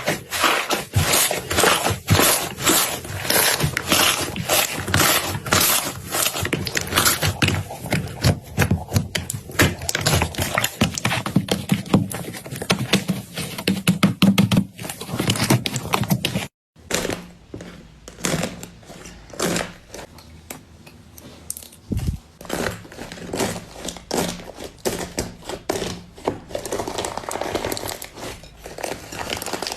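Slime being squeezed and worked by hand, giving dense, rapid crackling and popping clicks. After a brief break a little over halfway through, the clicks come sparser and softer.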